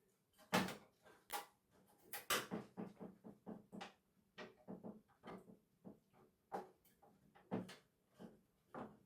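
Small salvaged parts from a dismantled television being handled and put together: a run of irregular light clicks and knocks, about two or three a second, with short gaps.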